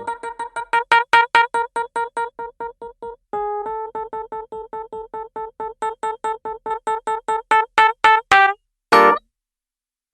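Nord Stage 3 stage keyboard playing an electric piano sound: one note repeated in fast, short staccato strokes, about five or six a second, stepping down a little in pitch about a third of the way in and growing louder. Near the end the run stops for one short chord stab, then a pause.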